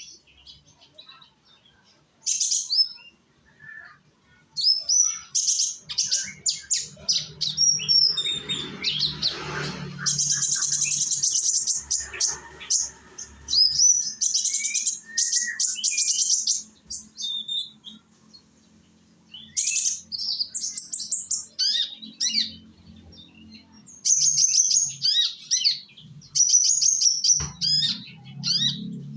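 Young konin, a small Indonesian songbird, singing in bursts of quick, high twittering notes and trills with short pauses between phrases. This is lure song meant to set other konin singing.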